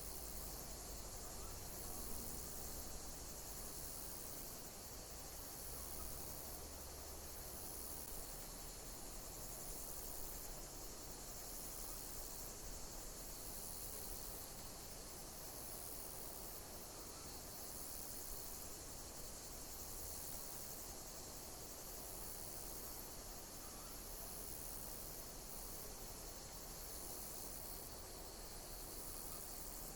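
Insects chirping steadily in a high-pitched chorus, with a pulsing note that repeats about once a second over it.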